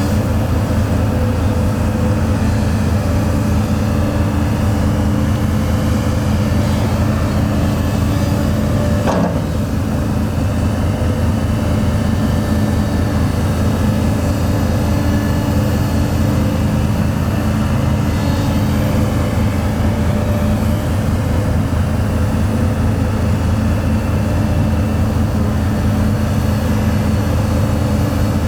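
Heavy diesel engine of construction machinery running steadily with a fast low pulse, with one brief sharp knock about nine seconds in.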